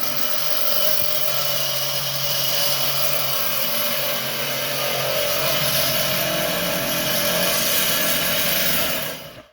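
A power tool runs steadily at full speed, then cuts off near the end.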